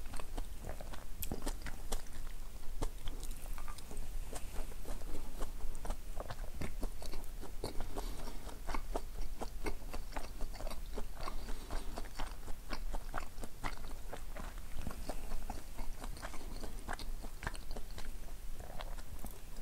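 A person chewing mouthfuls of sushi, with many short, irregular mouth clicks throughout.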